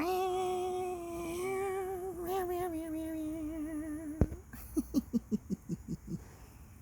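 A woman singing one long held note with vibrato for about four seconds, ending in a click, then a quick run of about ten short, clipped notes.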